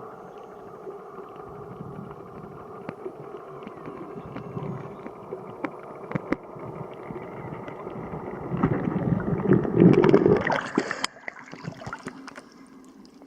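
Water rushing and gurgling around a sailing yacht under way, with scattered small knocks and splashes. It builds to its loudest between about eight and eleven seconds in, then drops away abruptly.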